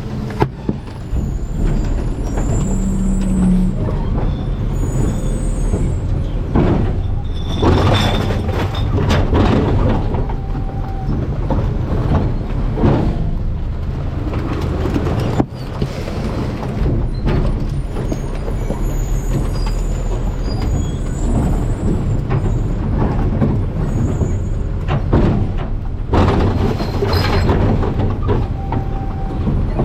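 Garbage truck running steadily with a low engine rumble, with intermittent knocks and crunches from the hopper.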